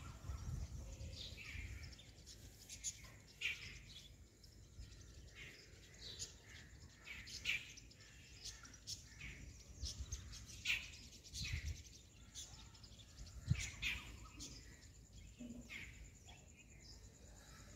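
Birds chirping: many short, faint calls scattered throughout, over a low rumble that swells now and then.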